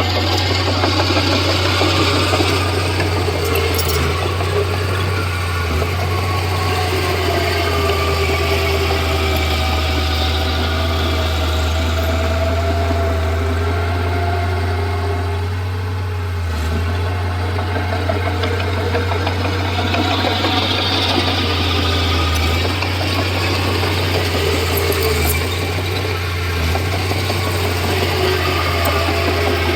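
Komatsu D31P bulldozer's diesel engine running steadily at a low, even pitch, with a brief dip in level about halfway through.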